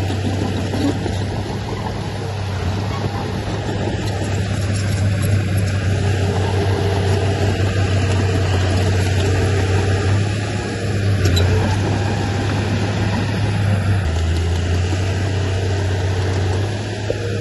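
Diesel engine of heavy earthmoving machinery running steadily, a constant low drone with noisy mechanical clatter over it.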